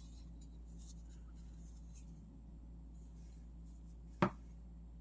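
Faint handling rustles over a steady low hum, with one sharp click about four seconds in.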